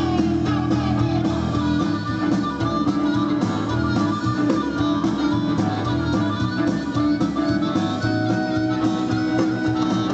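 Blues-rock band playing an instrumental passage led by guitar, steady and full with no singing.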